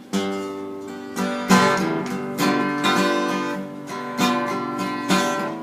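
Acoustic guitar strummed in a slow blues rhythm, several chords struck and left to ring with no voice over them.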